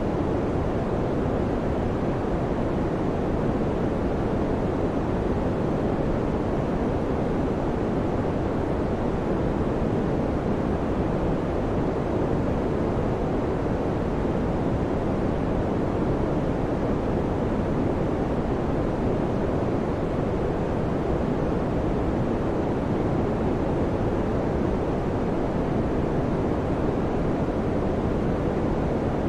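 Electric fan running steadily: an even rushing noise, deep and low-weighted, with no hum tone or change in speed.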